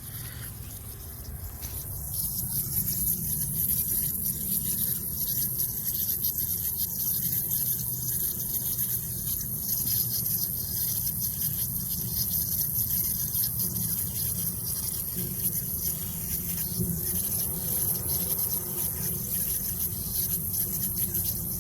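Steady hiss of water spraying under pressure, setting in about two seconds in.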